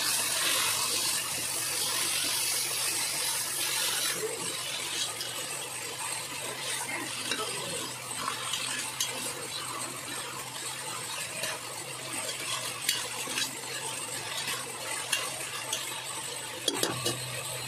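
Marinated chicken sizzling in hot oil in a pressure cooker while a metal ladle stirs it, scraping and clinking against the pot. The sizzle is loudest for the first few seconds, then the ladle's clicks and scrapes stand out.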